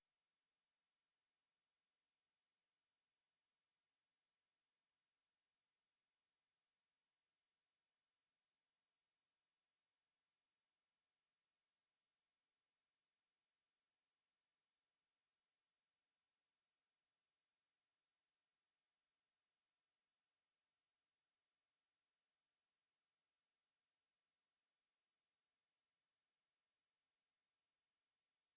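A pure sine-wave test tone at 7108 Hz, a single high-pitched steady whistle that does not change in pitch or loudness.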